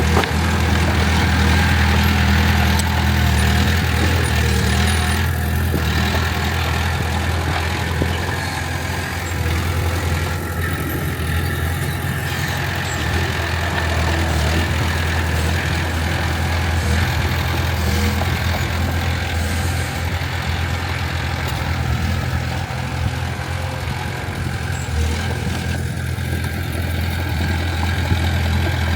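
Heavy diesel engine of earthmoving equipment running steadily with a deep, continuous drone, slightly louder for the first few seconds.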